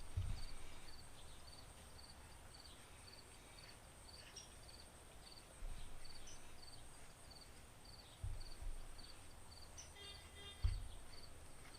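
Faint dull knocks and bumps of hands and tools working a motorcycle-style rear shock absorber apart on a workbench, a few seconds apart. A cricket chirps steadily in the background, two or three short chirps a second.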